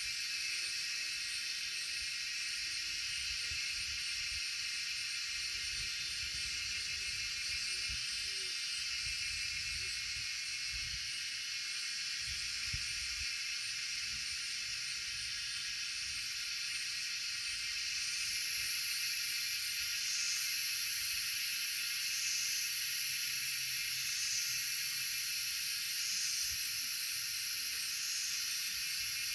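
Wind gusting against the microphone in low, uneven rumbles under a steady high-pitched hiss. From a little over halfway in, a shrill buzz pulses on and off about every two seconds.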